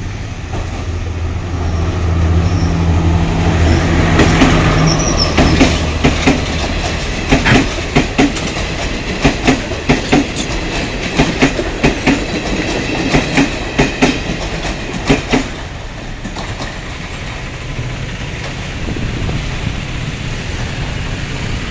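Diesel multiple-unit passenger train passing: a low engine drone as it comes near, then its wheels clack over the rail joints in a steady run of paired clicks as the carriages go by, fading to a quieter rumble as it moves away.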